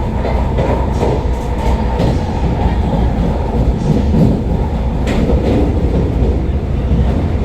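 Vande Bharat electric train running at speed, heard from inside the coach: a steady low rumble with a few faint clicks from the wheels and track.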